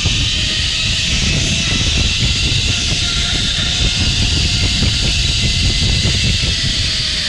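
Zipline trolley pulleys running along the steel cable: a steady high hiss with a faint whine, over wind rushing past the microphone.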